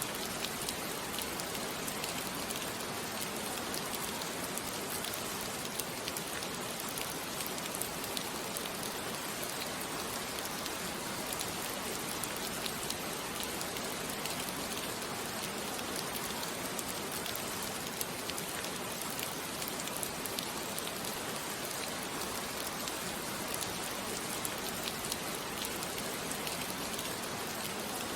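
Steady rain falling, a dense even patter of drops on a surface with fine ticks of individual drops throughout.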